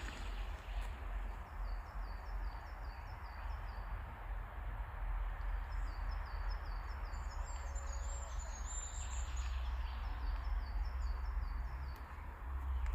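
Forest ambience: a steady low rumble of wind on the microphone under a soft background hiss, with a bird repeating short high chirps, about three a second, through most of it.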